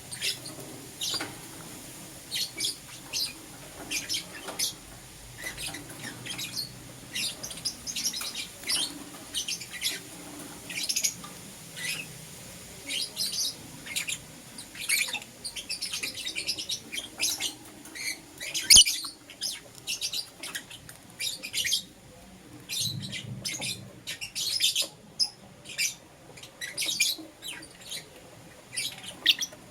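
Lovebirds chirping in a rapid string of short, high chirps, with one sharp click a little past the middle.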